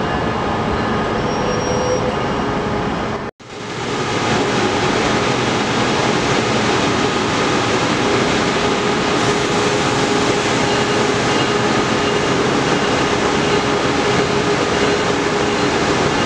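A train going by: steady, loud noise of wheels and running gear with faint steady tones through it. The sound drops out for a split second a little over three seconds in, then returns just as before.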